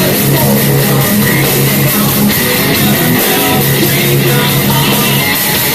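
Live heavy metal band playing loud and steady: distorted electric guitars, bass and drums in an instrumental gap between sung lines.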